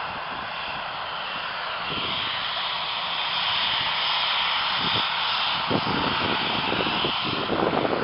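Aircraft engines running, a steady noisy rush whose high hiss grows stronger about two seconds in, with irregular low thumps in the second half.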